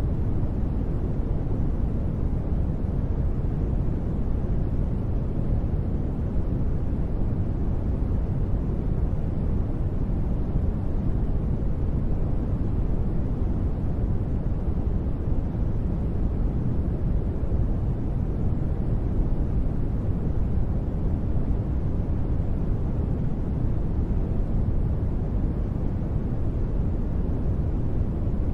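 Sleep noise track: a continuous, even hiss with most of its energy low and little treble, more like brown noise than true white noise, with no changes or sudden sounds.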